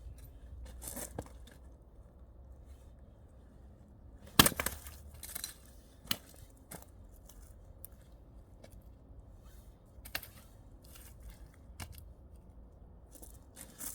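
An axe strikes a log once, hard, about four seconds in, with a brief cracking tail as the wood splits. Lighter knocks of wood follow a few times.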